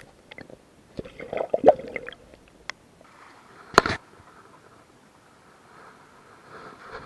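Water splashing with scattered knocks and clicks, busiest about a second or two in, and one loud sharp hit just before four seconds, followed by a low steady hiss.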